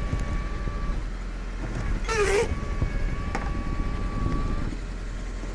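Tow truck engine running steadily while its winch pulls a stuck car out of a snowy ditch, with a thin steady whine that stops and resumes. A brief wavering squeal about two seconds in.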